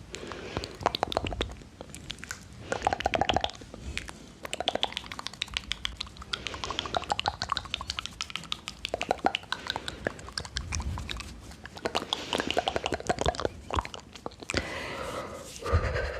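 ASMR mouth sounds close to the microphone: wet clicks and smacks of lips and tongue, coming in clusters with short pauses between.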